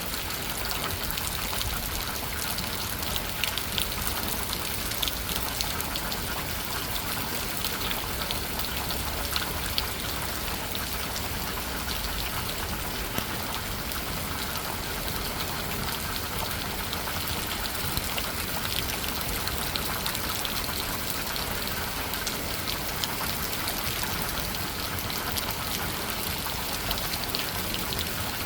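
Steady rain pouring down, an even hiss with scattered sharp ticks of individual drops striking a surface.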